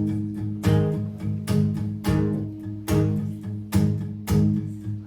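Acoustic guitar strumming a song intro in a steady rhythm, chords ringing between the strokes.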